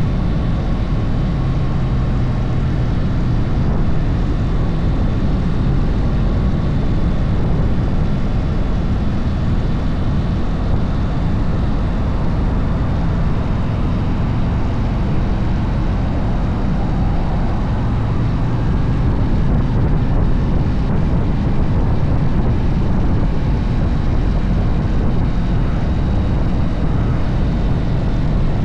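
Harley-Davidson motorcycle running steadily at road speed, its engine rumble mixed with heavy wind rush over the microphone.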